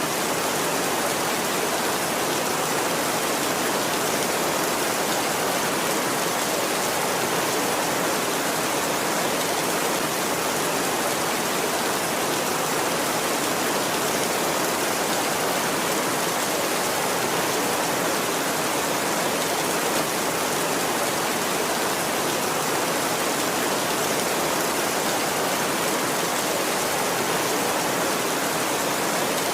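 Heavy rain on a tin roof, a steady, even hiss with no let-up.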